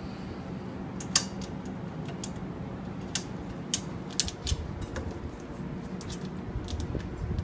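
Irregular sharp metallic clicks and clacks as metal parts of a display stand are pushed together and bolts and butterfly nuts fitted; the loudest click comes about a second in.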